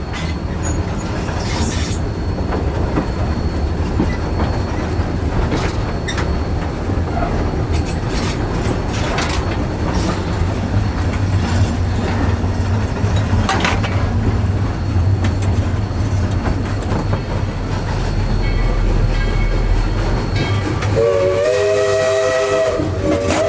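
Narrow-gauge steam train running, heard from the locomotive cab: a steady rumble with wheels clicking over rail joints. About three seconds before the end, a multi-note steam whistle starts and holds.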